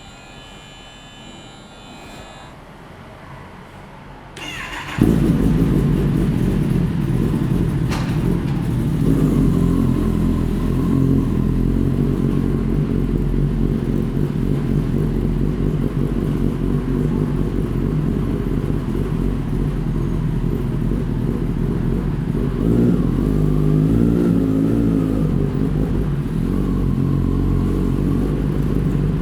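Kawasaki ZX-10R inline-four sportbike engine with an Akrapovic exhaust, cranked on the starter and firing about five seconds in, then idling steadily. The revs rise a little twice.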